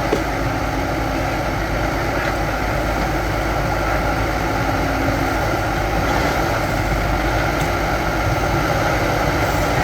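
Diesel engines of a backhoe loader and tractor running steadily, with a few faint knocks.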